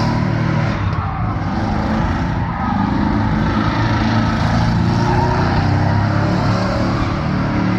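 Vehicle engine running hard at high revs, held fairly steady, dipping briefly about a second in and again near two and a half seconds.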